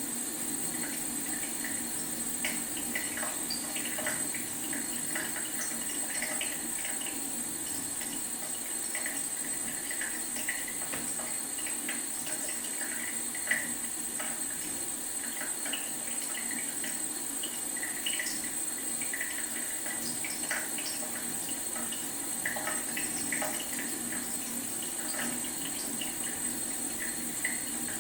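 Leaky faucet trickling and dripping: a steady thin run of water with irregular small splashes, and one louder drop about halfway through.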